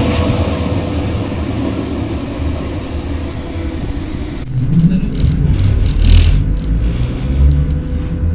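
Narrow-gauge electric commuter train (X10p unit) running, a steady rolling rumble with a faint held tone. About four and a half seconds in, the sound changes abruptly to an uneven, deeper rumble with a few brief brighter bursts.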